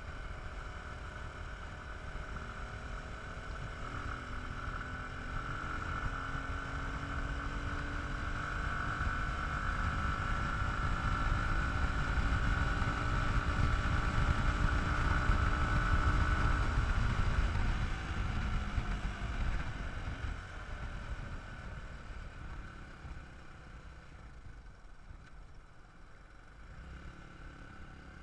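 Dirt bike engine running, growing louder for about fifteen seconds and then fading away, as the bike comes closer and then rides off.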